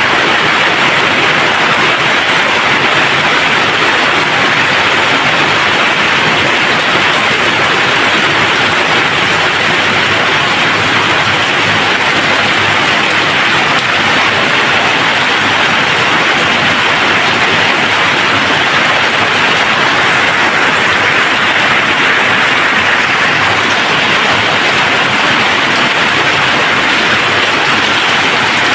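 Steady rain falling without a break, a dense even hiss with no thunder.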